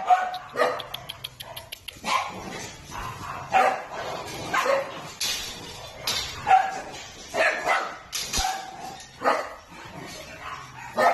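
Dogs barking repeatedly, a sharp bark about every second.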